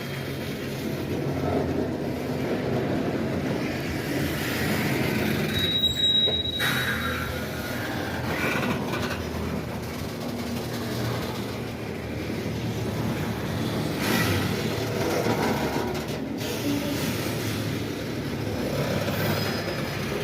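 Train rolling past, with a steady rumble of railcar wheels on the rails and a brief high wheel squeal about six seconds in.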